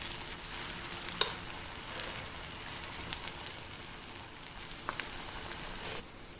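Corn pakora batter frying in hot oil: a steady sizzle with scattered crackles and pops. The sizzle drops off abruptly near the end.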